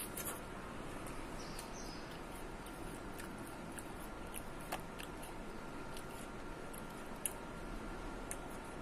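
Someone biting into and chewing a frozen durian potong ice-cream bar: faint small clicks and crunches over a steady background hiss, with one sharper click about halfway through.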